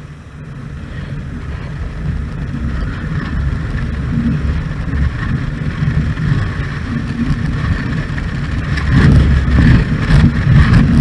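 Motorcycle engine running under way, a steady drone that grows louder toward the end.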